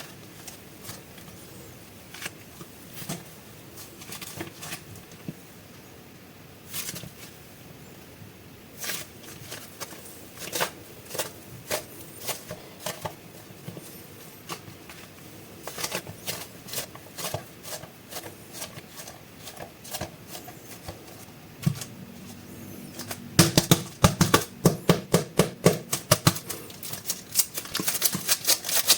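Plastic wrapping of super clay packages being handled and opened: scattered sharp crinkles and taps, turning into a dense run of loud crinkling near the end.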